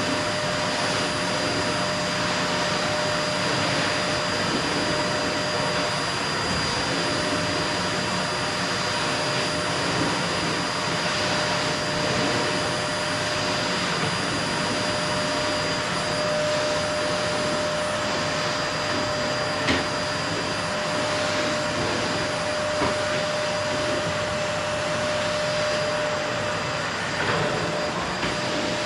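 Qilive vacuum cleaner running steadily: a broad rushing noise with a steady motor whine, and a couple of faint knocks partway through.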